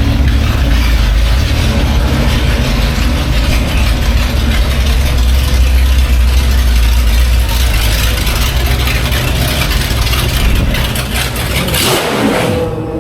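Classic racing car engine running loud with a deep, steady rumble. Near the end the pitch shifts quickly and the low rumble drops away.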